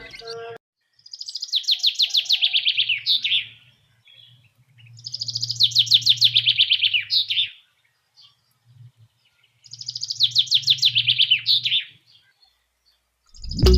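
A songbird singing the same rapid trilled phrase three times, a few seconds apart; each phrase falls slightly in pitch and ends in a short flourish.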